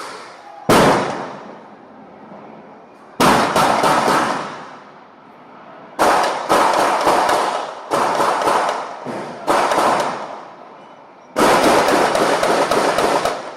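Bursts of rapid, loud explosive bangs, about seven volleys, each starting sharply as a quick run of cracks and dying away with echo.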